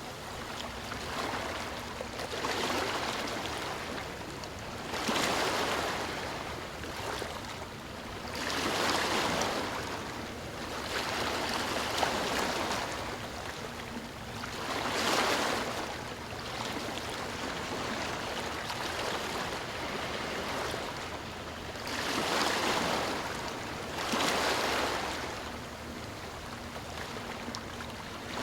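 Ocean waves washing onto a shore, surging and receding every few seconds in an irregular rhythm.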